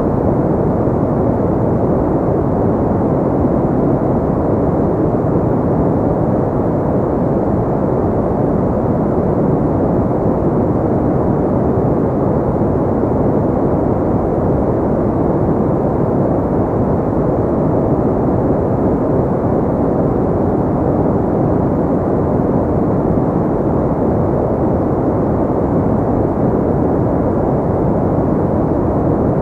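Continuous ambient sleep noise: a steady, deep, dull rush weighted toward the low end, like brown noise, with no highs and no changes.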